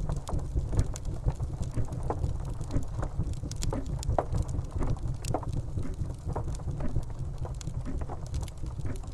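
Steady rain with a deep continuous rumble, and a grandfather clock ticking through it.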